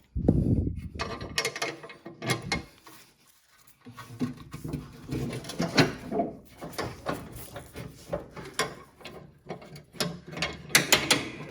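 Irregular metallic clicks, clanks and rattles of a lawn tractor mower deck's hanger and linkage being lifted and fitted onto the height-adjustment rod, starting with a heavier thump and pausing briefly about three seconds in.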